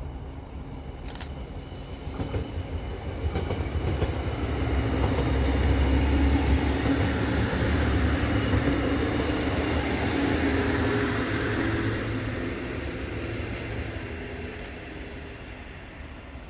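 Passenger train passing, a low rumble with a steady hum that swells from about two seconds in, is loudest midway and then fades away.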